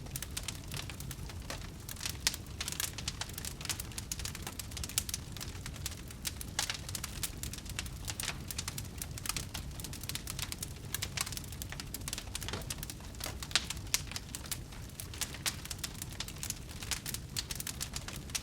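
Wood fire burning in a fireplace: a steady low rumble of flame under dense, irregular crackles and pops, with a few louder snaps scattered through.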